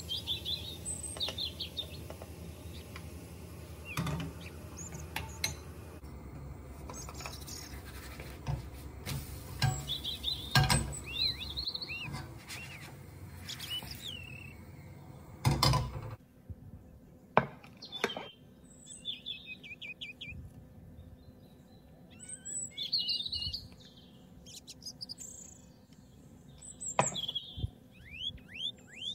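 Small birds chirping and twittering repeatedly, with scattered sharp clicks and knocks of kitchen utensils; the loudest knock comes about halfway through. A steady low hum sits under the first half and stops suddenly about halfway.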